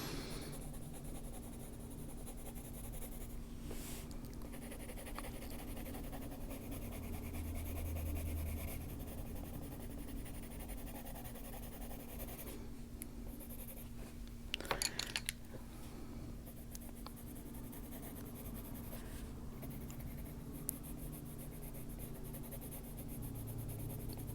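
Coloured pencil scratching softly on paper while shading, with a short cluster of sharp clicks about fifteen seconds in. A steady low hum runs underneath.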